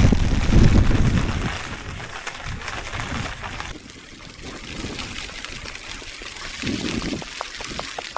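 Rainwater trickling and pouring, with a loud low rumble in the first second and a half.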